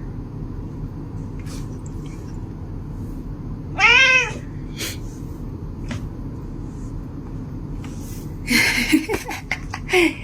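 A cat gives one loud meow about four seconds in, its pitch rising then falling. Near the end come a few short noisy bursts and a brief falling call over a low background hum.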